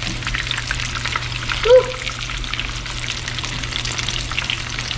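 Food frying in hot oil in a pan: a steady crackling sizzle with many small spitting ticks, over a steady low hum. A brief vocal sound comes about two seconds in.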